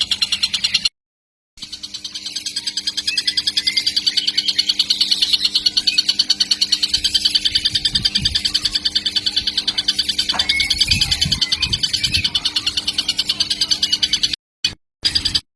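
Young tengkek (kingfisher) calling in a rapid, unbroken run of short high notes. The sound cuts out briefly about a second in and several times near the end.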